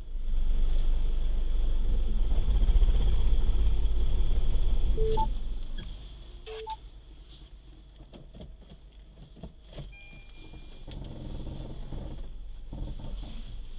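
Road traffic rumble, loud for about the first five seconds and then dropping away, with two short beeps about a second and a half apart and scattered light clicks.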